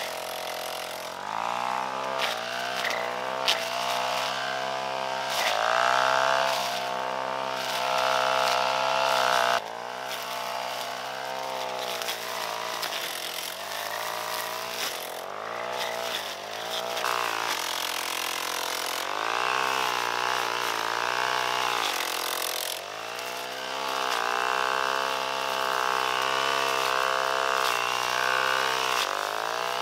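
Small petrol engine revving up and down: it climbs to a high, steady pitch, holds for a few seconds, then drops back to a low idle, several times over.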